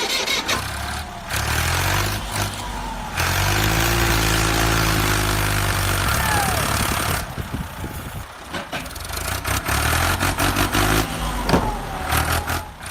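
Small truck engine running, with a louder, rougher stretch from about three to seven seconds in.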